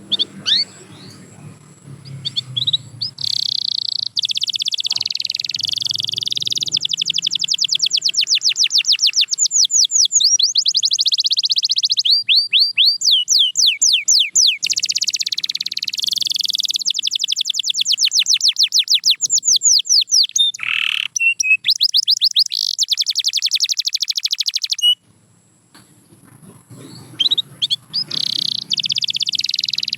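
Canary singing: long, fast trills of rapidly repeated notes and sweeping whistled phrases. The song breaks off for about a second and a half near the end, then starts again.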